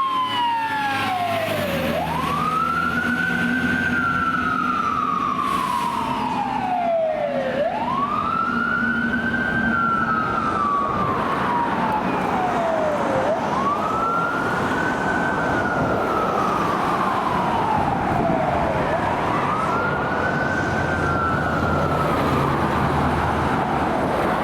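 Fire engine siren wailing on a slow cycle: the pitch climbs quickly, then falls off slowly, about every six seconds. A steady engine rumble runs underneath.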